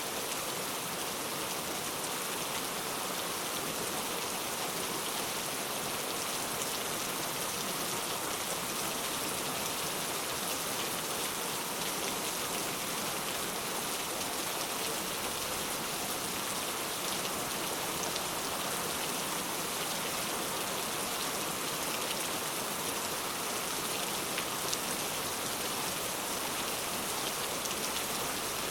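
Steady rain falling, a continuous even hiss with fine pattering of drops on a surface.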